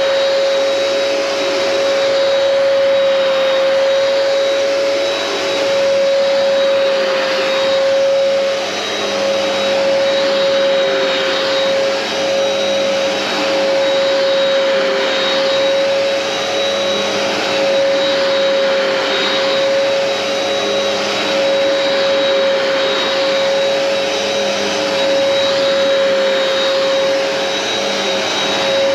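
Hoover Powerdash Pet upright carpet cleaner running while shampooing carpet: a steady motor whine over a loud rushing of suction, swelling and easing slightly as it works.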